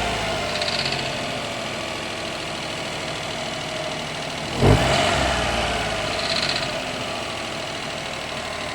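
Cold Daihatsu Esse KF three-cylinder engine idling, blipped once about midway and dropping back to idle. A brief rattle (katakata) comes as the revs fall after the throttle is released, about half a second in and again a second and a half after the blip; the noise appears only when the engine is cold, and the owner suspects piston slap.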